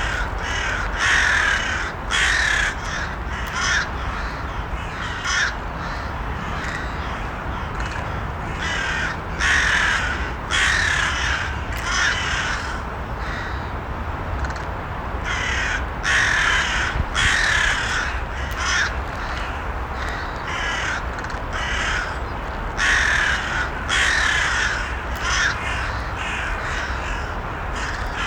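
Crows cawing repeatedly, in runs of several harsh caws every few seconds with short lulls between, over a steady low background rumble.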